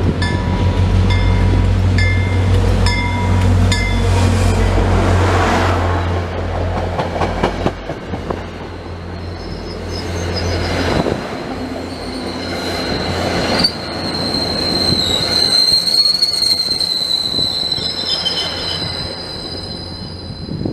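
A commuter train led by an MPI HSP46 diesel locomotive approaches and passes. The locomotive's engine hum and a bell ringing about twice a second come first, and the bell stops after about four seconds as the locomotive goes by. The coaches follow, rumbling over the rails, and through the second half there is a steady, high-pitched wheel squeal.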